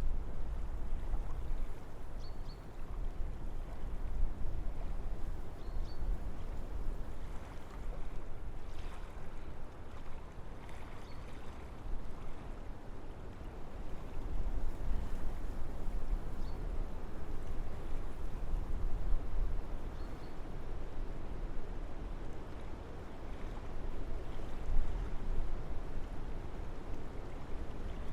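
Wind blowing through forest trees, a steady rushing that swells and eases in slow gusts, with a deep rumble underneath. Faint short high chirps come every few seconds.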